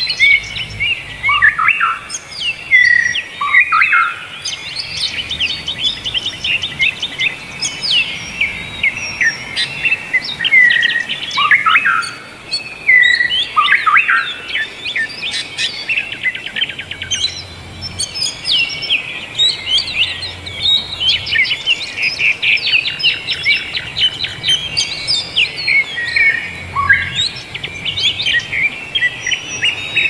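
Many birds singing at once: a dense, overlapping chorus of chirps, rapid trills and quick down-slurred whistles.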